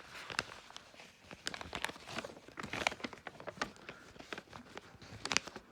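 A sheet of paper being folded and handled: irregular soft crinkles, rustles and taps.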